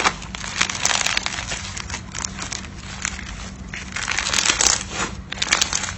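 Slime being worked by hand, giving off irregular crackling and popping.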